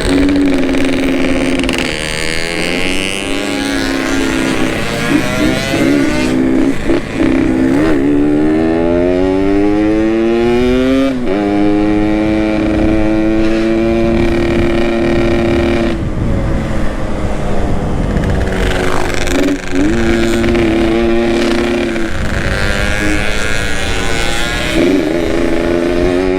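Yamaha RX-King two-stroke motorcycle engine with an aftermarket exhaust, ridden on the road. Its pitch climbs steadily from about 8 to 11 seconds in, drops at the shift, holds steady, then climbs again near the end.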